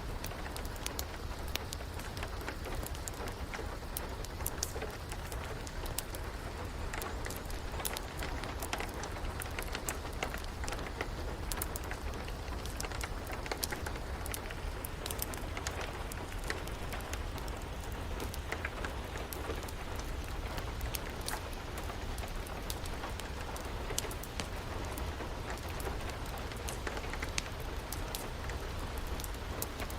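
Steady rain hiss mixed with a wood fire crackling, with frequent small sharp pops scattered through it.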